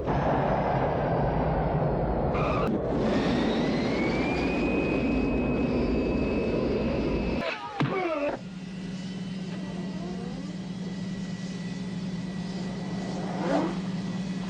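Jet airliner engine noise with a whine that rises in pitch, giving way about halfway through to a quieter, steady hum.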